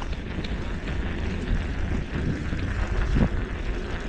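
Wind rumbling on the microphone with steady road noise while riding a bicycle, with one brief faint knock about three seconds in.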